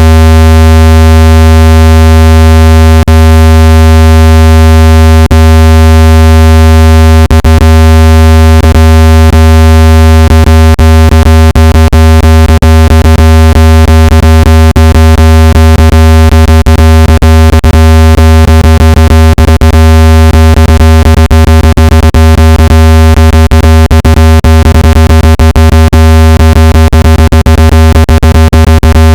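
A loud, steady, low-pitched electronic tone with a stack of buzzy overtones: a water-ejection tone for clearing water out of a phone or earbud speaker. Sharp clicks break into it now and then, becoming frequent from about seven seconds in.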